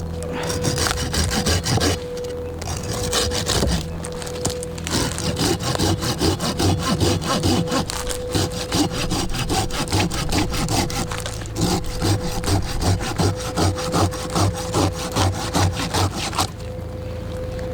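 Hand saw cutting through wood in steady back-and-forth strokes, about two a second, stopping about a second before the end.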